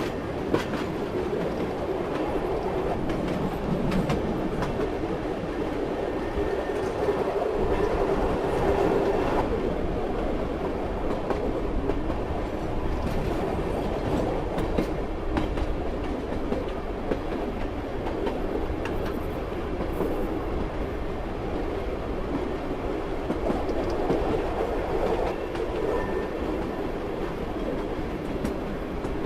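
Train in motion: a steady running rumble with the wheels clattering over the rails and scattered clicks and knocks throughout.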